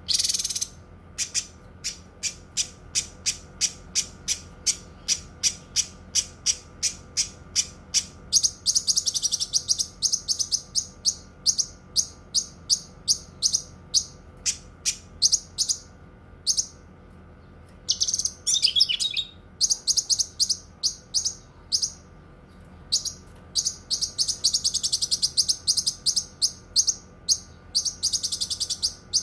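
Cucak kinoi songbird singing: a fast run of sharp, very high chip notes, about three a second, broken by long, rapid trills, the 'long shots' that bird keepers prize.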